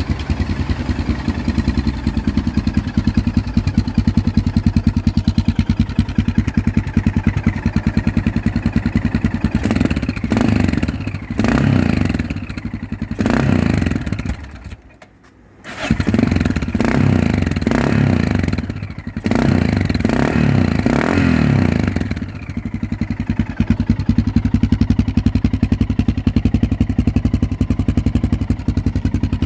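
Yamaha XTZ 660 Ténéré's single-cylinder engine running through an aftermarket Spark exhaust, idling with an even pulse. It is blipped several times about a third of the way in, drops briefly to much quieter about halfway, is blipped again, then settles back to idle.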